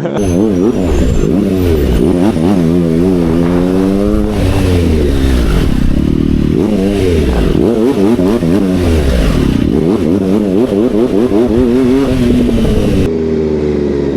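Motorcycle engine revved up and down over and over, its pitch rising and falling every second or so in restless throttle blips. Near the end it settles to a steadier, lower note.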